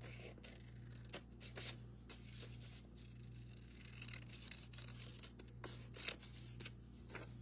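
Scissors cutting: a scattering of short snips and paper rustles over a steady low hum.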